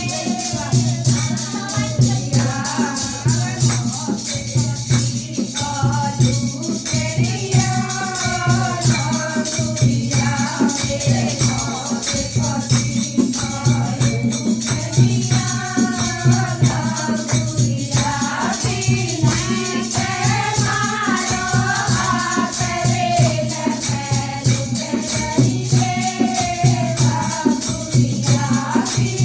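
Languriya bhajan, a North Indian devotional folk song, sung over a fast, steady beat of drums and jingling shakers.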